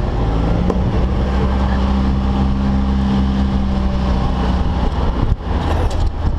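An engine running steadily close by, a low droning hum that stops about five seconds in.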